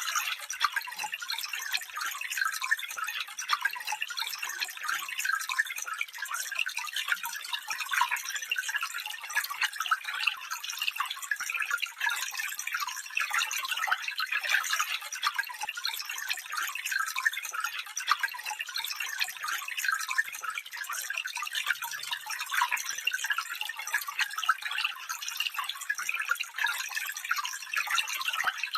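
A small stream trickling and babbling over stones, a steady bright patter of water.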